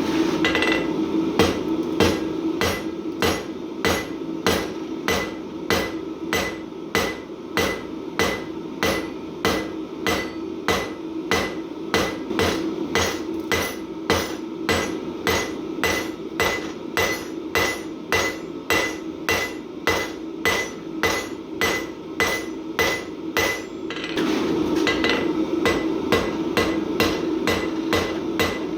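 Hand hammer striking mild steel on an anvil in a steady rhythm, about two blows a second, each blow with a light metallic ring. A steady low hum runs underneath and grows louder near the end.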